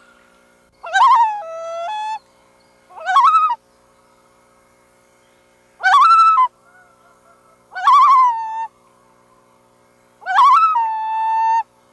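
Loons calling: five separate calls about two seconds apart, each with a wavering, quavering pitch, some ending in a held lower note.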